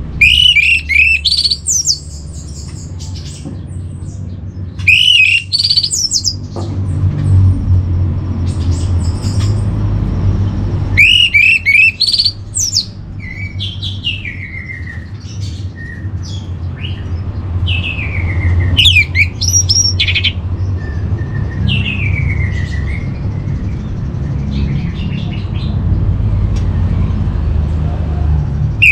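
Orange-headed thrush singing: separate phrases of rapid, high chattering notes alternating with clear whistles that slide downward, a few seconds apart. A steady low rumble runs underneath.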